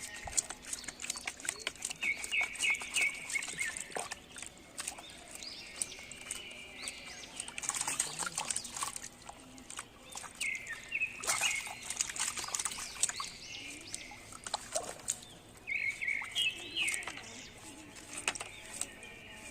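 Birds chirping in short, quick phrases that come three times, over scattered clicks and a few brief noisy bursts.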